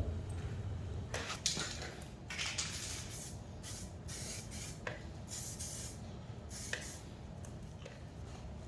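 Aerosol spray can sprayed in several short hissing bursts.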